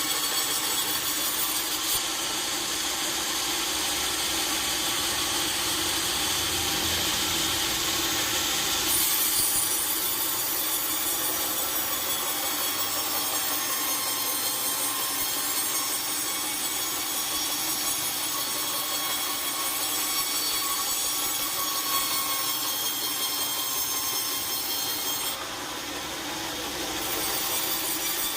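A sawmill saw running steadily through a log, with a high whine over the cutting noise. It eases off briefly near the end.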